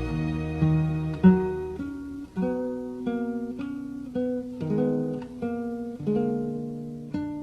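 Acoustic guitar music: a melody of single plucked notes, each ringing and fading before the next.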